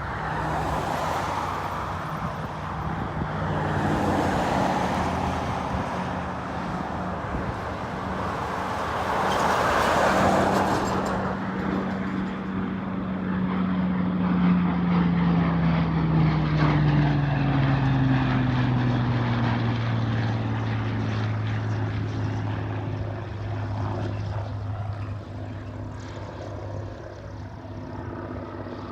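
Piston engine and propeller of a Second World War fighter on its landing approach. The noise swells loudly twice in the first ten seconds. Then the engine's pitch falls steadily and settles into a lower, steady drone that fades slightly near the end.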